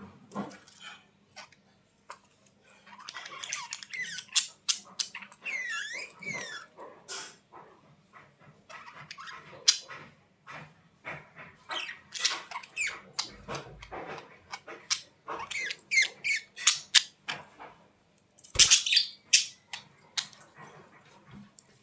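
Budgerigars chattering: a quick run of sharp high chirps, clicks and warbling squeaks, with some fast rising and falling whistles, thickest around a third of the way in and again near the end.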